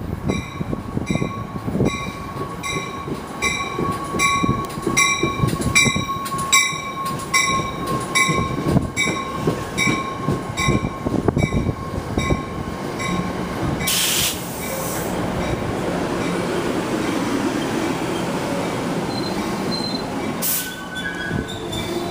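A train running on the line, with gusts of wind on the microphone. For the first half a ringing repeats about twice a second, then stops. About two-thirds of the way through there is a short hiss.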